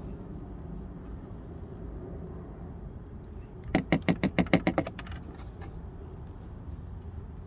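Fabric repair powder being tapped into a carpet burn hole: a quick run of about ten sharp taps within about a second, near the middle, over a steady low rumble.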